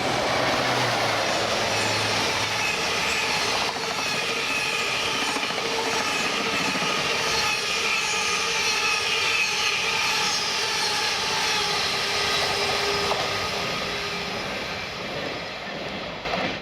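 Train running on the rails: a steady rumble and rush of noise, with thin high squealing tones from the wheels riding over it. It eases off slightly near the end.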